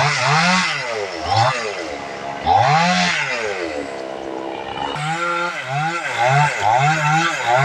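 Tractor engine revved up and down in blips, each rev rising in pitch and falling back. A few separate revs come first, one longer near the middle, then a quicker run of about two revs a second near the end.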